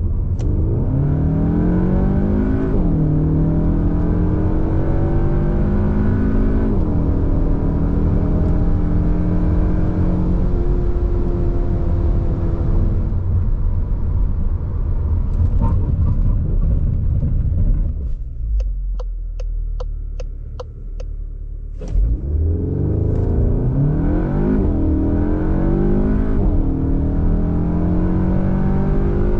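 Cupra Formentor VZx's 2.0-litre turbo four-cylinder with Akrapovic exhaust accelerating hard, its note climbing and dropping back at each quick upshift of the seven-speed dual-clutch gearbox. About two-thirds of the way through it eases off and goes quieter, with a regular light ticking about four times a second. Then it pulls hard again through a run of upshifts.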